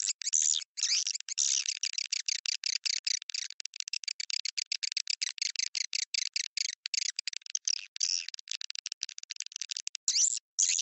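Swiftlet lure call: a recording of edible-nest swiftlets twittering, played to draw the birds into a nest house. It is a rapid, unbroken run of high, chittering chirps with brief gaps between them.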